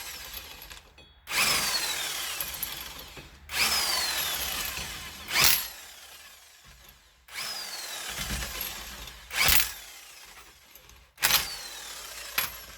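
Cordless drill spinning lug nuts onto the wheel studs in repeated runs of about two seconds, each starting loud and fading, with a falling whine at the start of each run. Two sharp clicks fall between runs.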